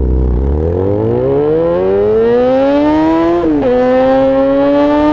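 Yamaha XJ6 S inline-four with an SC-Project aftermarket exhaust accelerating hard: the engine pitch climbs steadily, drops at a gear change about three and a half seconds in, then climbs again in the next gear.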